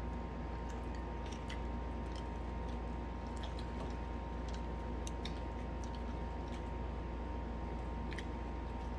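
People chewing and biting into fried chicken, with scattered small crunches and mouth clicks, over a steady low hum.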